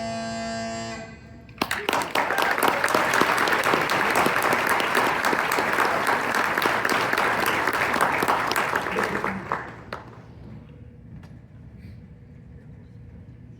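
Scottish smallpipes sounding their last note with the drones, cutting off about a second in, then an audience applauding for about eight seconds before the clapping dies away.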